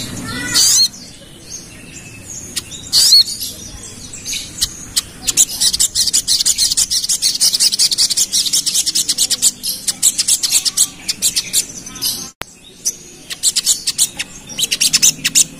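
A sogon, a small sunbird-family songbird, singing in a rapid, tight chattering run of high chirps. A few sweeping calls come first, then a long fast burst of chirping that breaks off briefly and starts again near the end.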